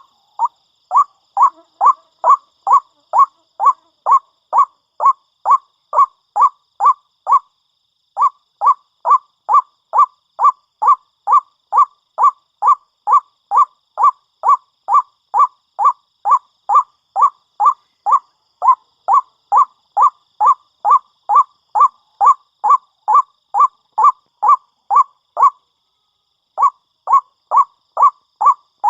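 White-breasted waterhen (ruak-ruak) calling: a long, rapid run of loud, even, repeated notes, about two to three a second, broken by two short pauses.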